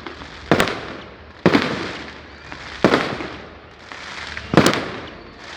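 Firecrackers going off: four sharp bangs at uneven intervals of one to two seconds, each trailing off in an echo.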